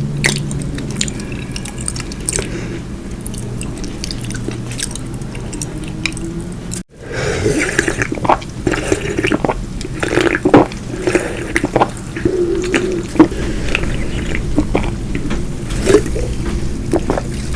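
Close-miked wet eating sounds: soft, squishy chewing and smacking mouth noises with many small sharp clicks. The sound drops out for an instant about seven seconds in, then the chewing and clicking grow busier.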